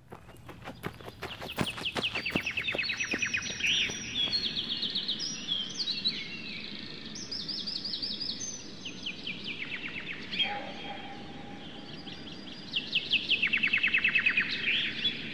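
Woodland birds singing: many rapid, high trills, each a quick run of notes, overlapping throughout, with a dense burst of trills near the end.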